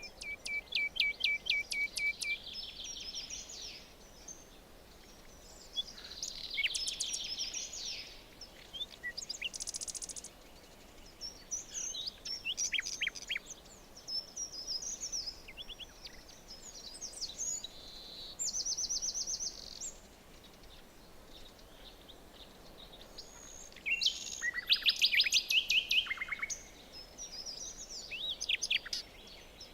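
Several small birds singing and chirping in a forest, one phrase after another with short gaps, over a faint steady background hiss. Some phrases are quick trills of rapid repeated notes, others short high chirps; the loudest burst comes near the end.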